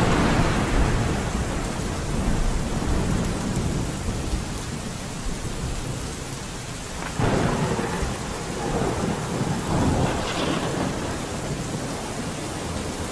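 Steady rain with rolls of thunder, one swelling about seven seconds in and another around ten seconds.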